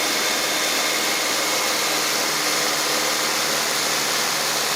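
1993 Honda Civic's four-cylinder engine running steadily at idle, heard close up as an even hiss, after a new ignition coil cured its crank-no-start.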